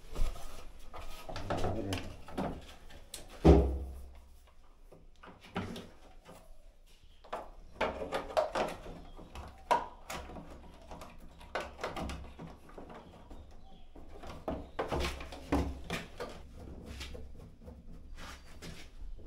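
Irregular knocks, clicks and clunks of washing-machine parts being handled and fitted during a repair, with one loud thump about three and a half seconds in.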